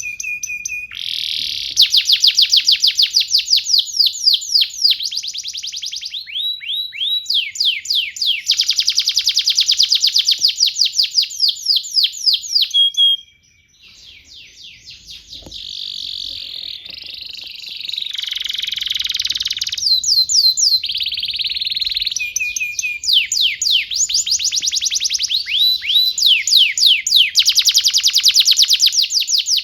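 Canary singing a long song of trilled phrases: rapid runs of quick, down-sweeping notes, each phrase switching to a new pattern, with a brief break about 13 seconds in.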